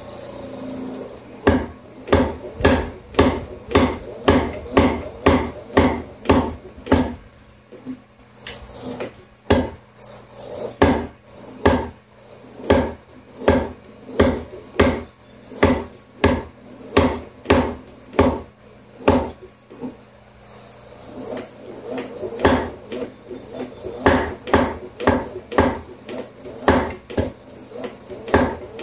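Home-built tire power hammer striking copper bar to straighten it: a run of ringing blows, about two to three a second, with a few short pauses, over the steady hum of the hammer's motor.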